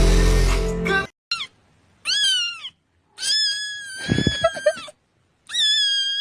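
Music that cuts off about a second in, followed by a cat meowing four times with short silences between, the third meow long and drawn out; cat-meme sound clips cut in as an edit.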